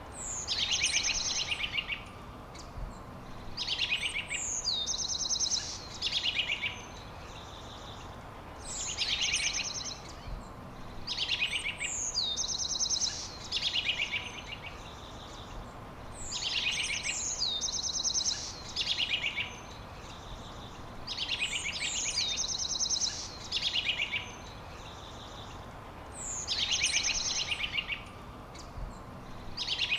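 A songbird singing the same short phrase over and over, about a dozen times, each phrase a downward-slurred whistle running into a fast, high trill. A steady hiss of background noise runs beneath.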